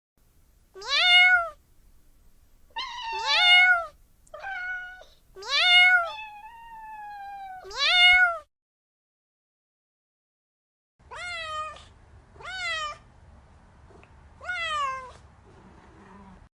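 Domestic cat meowing repeatedly: short meows that each rise and then fall in pitch. About five come in the first half, then a pause, then three more.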